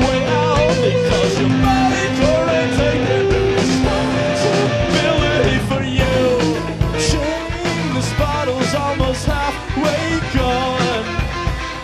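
Live rock band playing an instrumental passage: electric guitars, bass and drums with a steady beat, recorded from the room.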